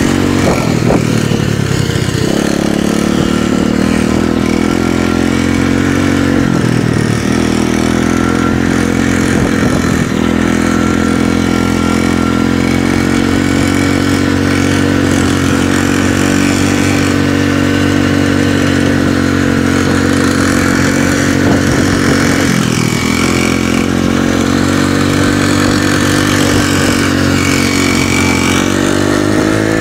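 Small off-road motorcycle engine run hard, held at steady high revs with a few short drops as the throttle is shut off, and revving up again near the end.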